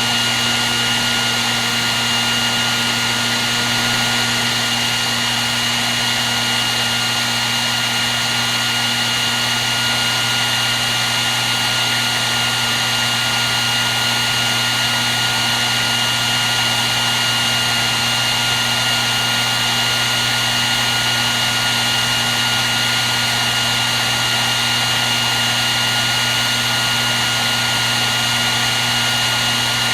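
Hair dryer running steadily: a constant rush of air with a steady high whine and a low hum under it.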